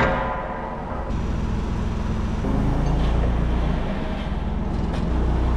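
A sharp metal clang that rings for about a second, then a forklift's engine running, louder from about halfway through.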